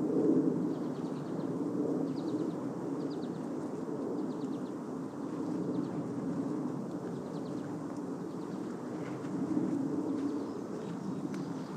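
Songbirds calling: faint, short, rapid high trills repeated several times in the first half, over a steady low background rumble.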